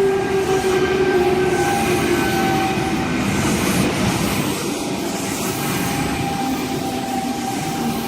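Sydney Trains eight-car C set electric train pulling into the platform and slowing, with a whine that falls slowly in pitch over the rumble of its wheels on the rails.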